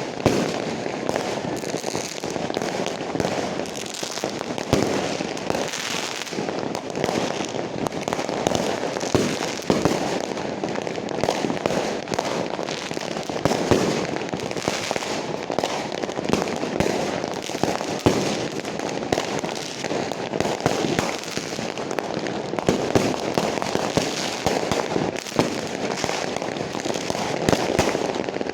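A continuous barrage of fireworks: many overlapping bangs and pops over a steady crackle, with no break.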